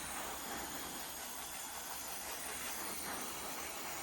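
Steady hiss of water spraying from a hose, rinsing snow foam off a motorbike.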